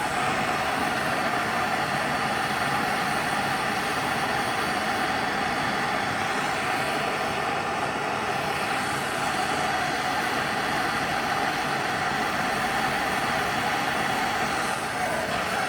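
Steady, unchanging machine noise: an even rushing sound with a constant hum running through it, no knocks or pauses.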